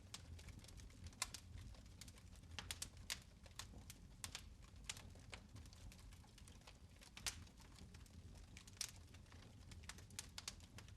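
Fire crackling in a fireplace: faint, irregular sharp snaps and pops, bunched together at times, over a soft low rumble.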